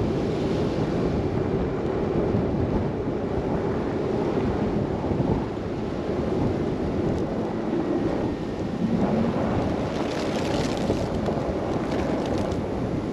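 Wind and driving noise of a car travelling through a snow blizzard: a steady low rumble with no break, and a brief rise of higher hiss about ten seconds in.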